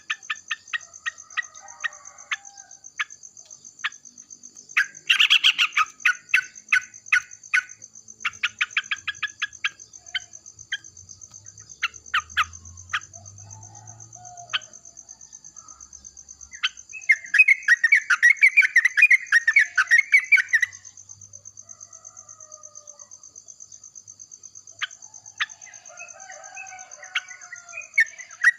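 Yellow-vented bulbuls calling back and forth: series of sharp, quick chips, then a few seconds of dense, bubbly chattering song past the middle. A steady high-pitched whine runs underneath throughout.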